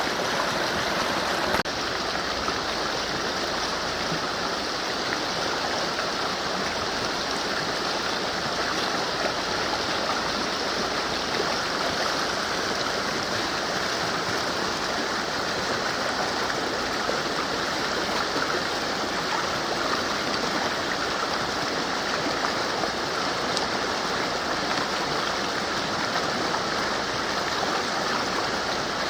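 Mountain river running steadily, a constant rushing of water, dipping slightly in level about a second and a half in.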